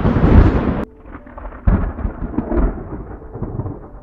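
Thunder: a loud, sharp thunderclap that cuts off suddenly just under a second in, then a duller, lower rumble of thunder that fades away.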